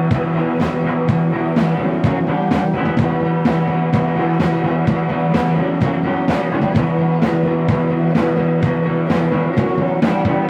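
Rock band playing live: guitars holding chords over a steady drum beat, about two and a half hits a second.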